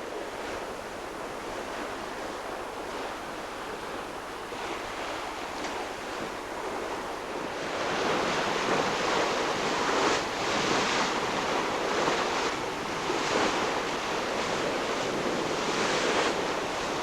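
Sea water rushing and splashing along a sailing yacht's hull, with wind buffeting the microphone. It gets louder about halfway through and comes in repeated surges.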